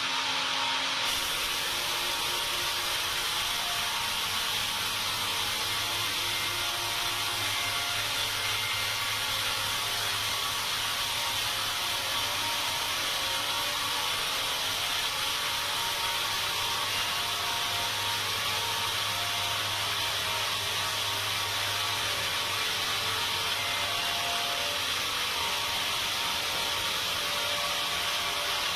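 Sawmill saw running steadily through timber, a continuous, even machine noise with faint steady tones.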